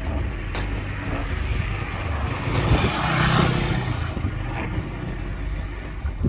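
Strong wind buffeting the microphone as a steady low rumble, with a rushing sound that swells to a peak about three seconds in and fades away.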